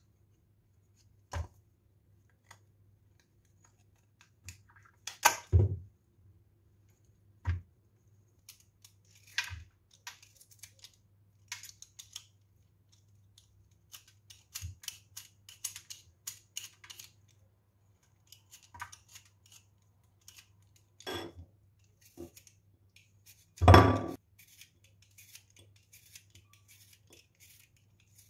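Scattered light clicks, taps and snips of small objects being handled, with louder knocks about five seconds in and again near the end, over a faint steady low hum.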